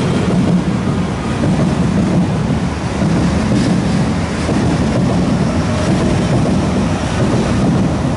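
East Rail line electric multiple-unit train pulling out of the station and running past at close range: a steady low rumble of wheels on rails with rushing air as the cars go by.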